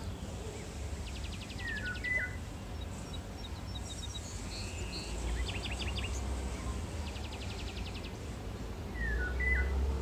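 Bird song: a fast, high trill followed by a few short downward-slurred whistles, given twice, with scattered chirps between, over a low steady rumble.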